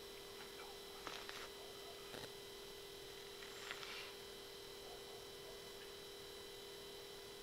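Faint steady electronic hum with two short, soft rustles, about a second in and again about three and a half seconds in, and a small click between them.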